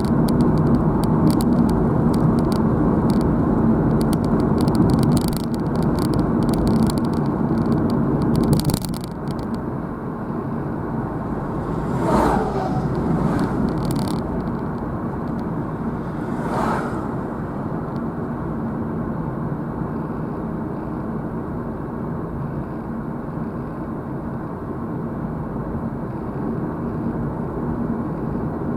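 Steady road and engine noise of a moving car. A hum and rapid crackling clicks run for about the first nine seconds, then stop. Two short swishes falling in pitch come about twelve and sixteen seconds in, like vehicles going past.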